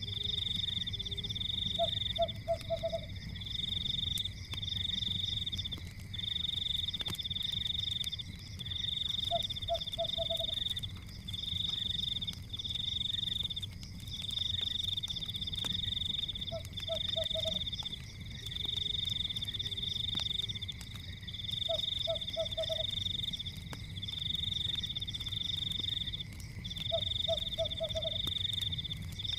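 Forest night chorus: a high-pitched trilling in runs of a second or two, almost without a break, with a short lower pulsed call about every five to six seconds. Underneath are faint fire crackles and a low rumble.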